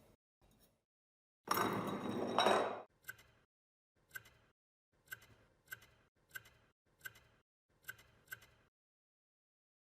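Work on a metal spray gun's parts: a loud noisy burst lasting over a second, then about nine sharp clicks at an even pace, a little over one a second.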